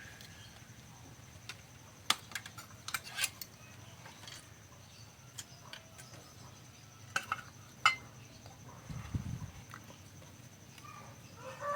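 Scattered light clicks and taps from small objects such as wires, clips and tools being handled on a workbench, with a soft low thump near the end.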